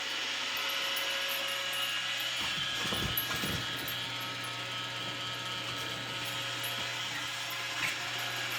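Roomba robot vacuum running: a steady mechanical whir of its motors and brushes with a constant whine. A few low thumps come about three seconds in, and a short click near the end.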